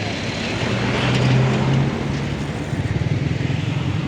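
Heavy truck's diesel engine running, its note rising and swelling about a second in, then settling into a rougher, pulsing rumble from about halfway.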